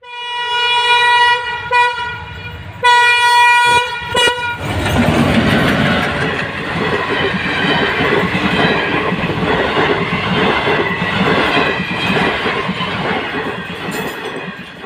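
Indian Railways ALCO WDG3A diesel locomotive's horn sounding two long blasts. The train then passes close by, and the coaches' running noise carries steadily to the end.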